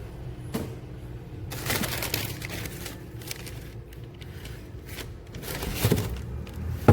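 Rustling and scraping handling noises in a small room, with scattered clicks, a stretch of rustling about two seconds in and a sharp click near the end.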